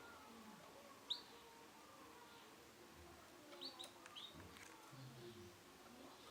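Male canary giving short, sharp call notes, each falling quickly in pitch: one about a second in, then three in quick succession a little past the middle.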